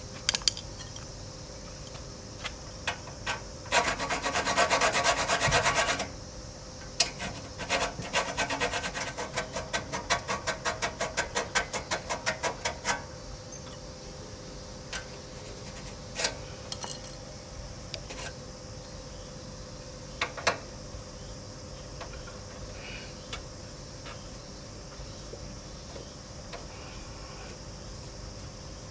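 Hand-tool scraping and rubbing, likely while working the end diffuser out of a Honda CT110's stock muffler. A continuous rasp runs for about two seconds, then about sixteen short back-and-forth strokes follow at roughly three a second, with a few sharp clicks scattered later.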